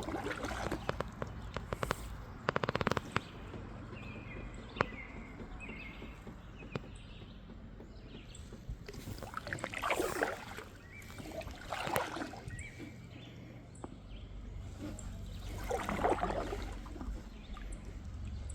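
Kayak paddle strokes swishing and splashing in the river water, about three strokes a few seconds apart, over a low steady rumble. A quick clatter of small knocks sounds in the first three seconds.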